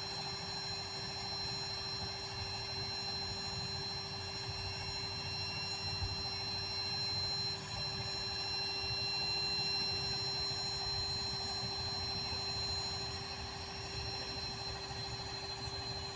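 A vehicle engine running steadily: a low rumble with a constant high-pitched whine over it.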